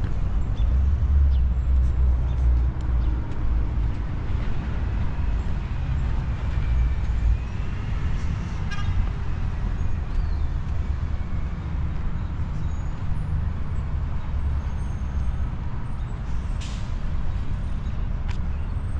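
City street traffic: a steady low rumble of passing vehicles, with a faint gliding whine near the middle and a brief hiss about three-quarters of the way through.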